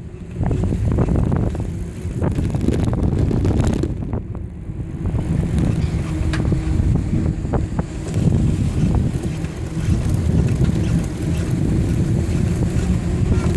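Wind buffeting the microphone of a camera carried on a moving bicycle: a steady low rumble, with a few faint clicks.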